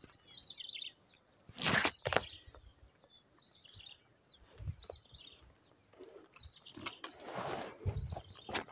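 Small birds chirping in many quick, short, high calls. About two seconds in there is a brief loud burst of noise followed by a sharp click, and near the end a longer stretch of noise with a few low thumps.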